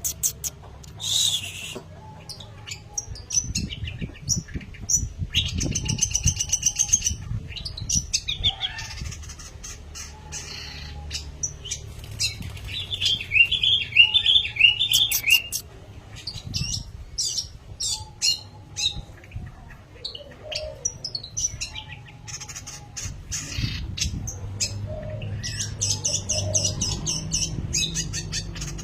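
Long-tailed shrike (pentet) singing a fast, varied string of chirps, trills and harsh squawking notes, with bouts of low rumbling in between.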